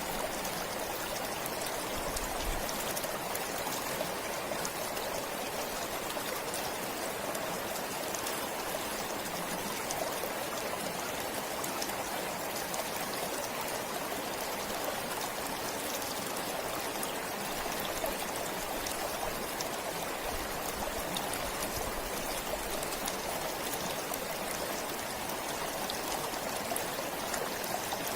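Stream flowing steadily: a continuous, even rush of running water.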